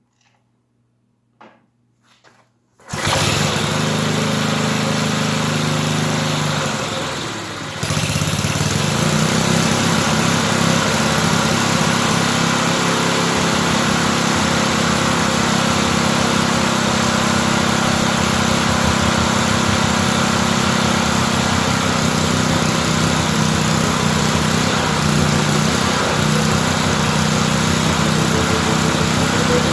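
Old Briggs & Stratton engine on a riding mower catching about three seconds in after a few faint clicks, then running steadily; its sound sags for a moment around seven seconds in and picks back up. These old engines are hard to get going.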